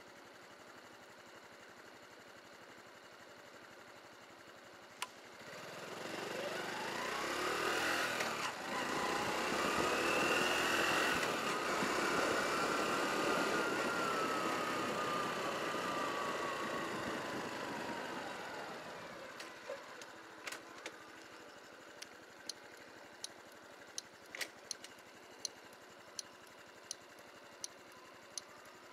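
Honda Cross Cub 110's single-cylinder four-stroke engine pulling away and climbing in pitch through the gears, then easing off and fading to a low hum. It is followed by a regular light ticking about every 0.7 seconds.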